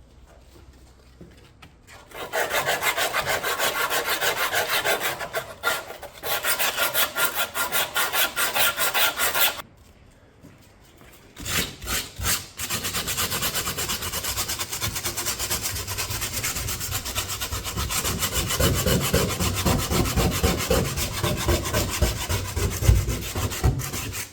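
Steel exhaust straight pipes being sanded, a fast even rasping that starts about two seconds in. It stops for about two seconds partway through, then resumes.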